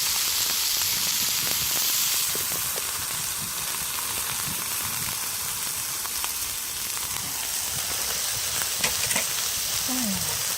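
Pork belly and bean sprouts sizzling steadily on a cast-iron pot-lid griddle over a wood fire, a little louder for the first couple of seconds, with a few light clicks near the end.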